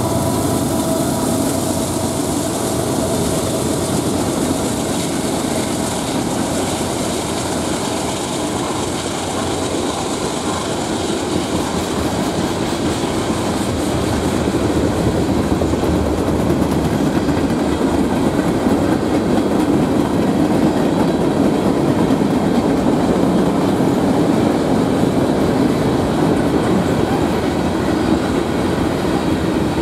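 Freight train rolling past a grade crossing: the horn's last held chord fades out in the first second, then the steady rumble and clickety-clack of freight cars over the rails, getting louder about halfway through.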